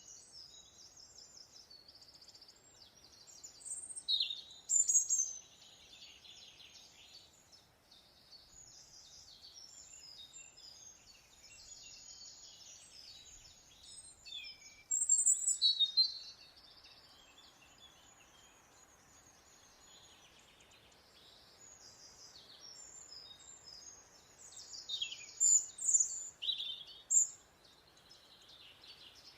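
Several wild birds calling and singing together: a dense mix of high chirps, trills and quick sweeping notes, with louder calls about four seconds in, around fifteen seconds and again near the end.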